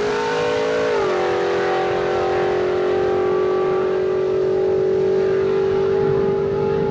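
Car engine at full throttle on a drag-strip run, a loud steady drone that dips in pitch about a second in and then holds as the car pulls away down the track.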